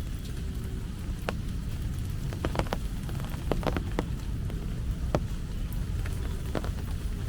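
Rain dripping: scattered, irregular ticks of drops over a steady low rumble.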